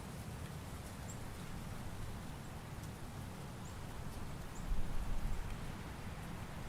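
Autumn forest ambience: a steady low rush of wind with faint rustling and a few tiny high ticks. A short, louder low rumble comes about five seconds in.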